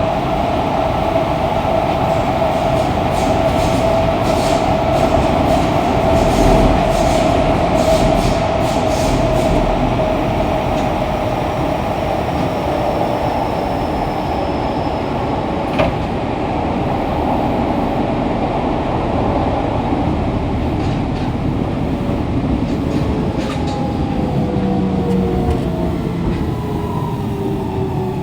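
Fukuoka City Subway 2000-series car with a Hitachi GTO-VVVF inverter running at speed, with a steady inverter tone over the running noise. The tone fades out around the middle, where there is one sharp click. Near the end several tones glide down in pitch as the train brakes for the next station.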